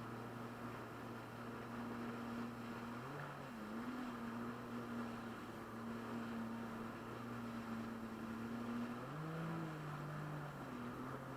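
Jet-ski engine running steadily over a steady hiss, its pitch shifting twice, about three seconds in and again about nine seconds in.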